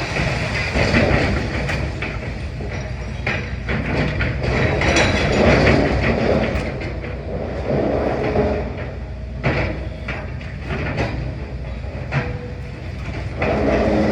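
Demolition excavator at work: a steady low diesel engine rumble under irregular clanking and crunching of rubble and masonry.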